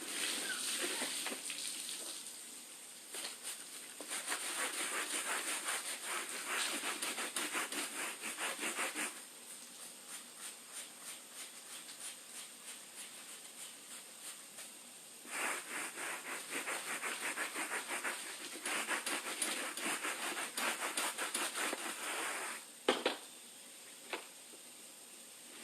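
Rapid back-and-forth scrubbing strokes on a rubber anti-fatigue mat being degreased, in two long bouts with a quieter stretch between; a couple of sharp knocks near the end.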